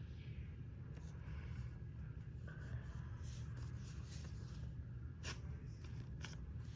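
Faint handling noise of a soft foam squishy toy being squeezed and turned in the hands: light rustling with a few small sharp clicks, over a low steady hum.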